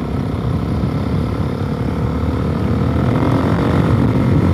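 Suzuki DR-Z400S single-cylinder four-stroke engine running under way, with a little rumble from its exhaust through the full spark arrestor, growing gradually louder.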